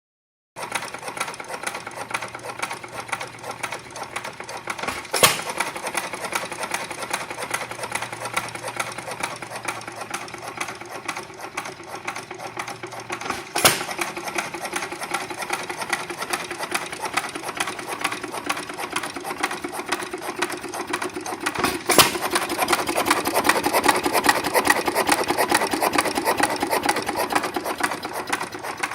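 Foos Jr hit-and-miss gas engine running: a steady fast mechanical clatter as it coasts, broken by a single sharp firing bang three times, about eight seconds apart.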